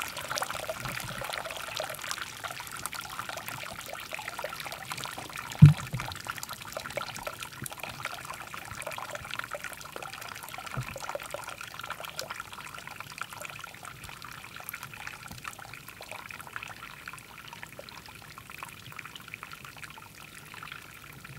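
Liquid trickling and pouring steadily, with many small ticks and splashes, easing off a little toward the end. One sharp thump about five and a half seconds in.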